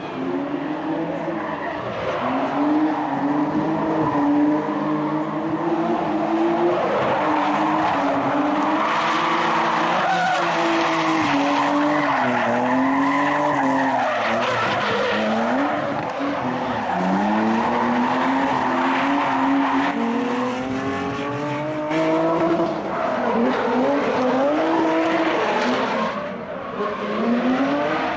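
Drift car engine revving hard, its pitch rising and falling again and again as the throttle is worked, with tyres squealing and skidding through a drift.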